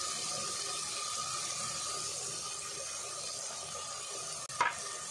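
Steady sizzle of an onion-and-tomato masala frying in oil in a clay pot, with one short knock near the end.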